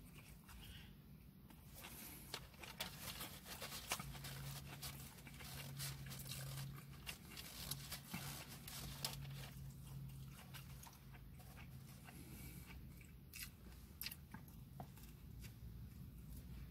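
A person eating a sandwich close to the microphone: chewing and biting with many small wet mouth clicks and smacks. A low steady hum sits underneath for several seconds midway.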